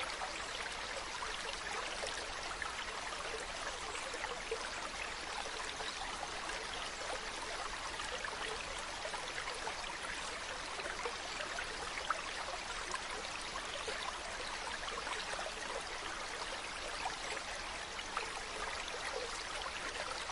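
Mountain stream running over rocks: a steady, even rush of water with constant small splashing and burbling.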